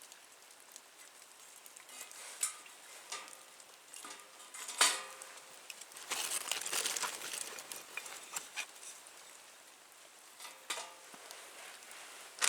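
Small wood fire in a Nature Stove crackling as it gets going after lighting, with scattered sharp pops, the loudest about five seconds in, and a denser burst of crackling a little after.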